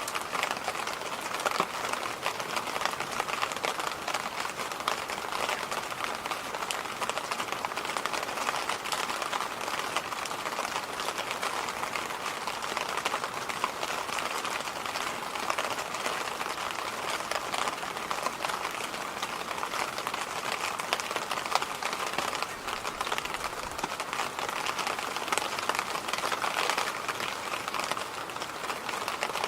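Electric fan running steadily: an even, airy whoosh strongest in the middle range, with a faint rapid crackle.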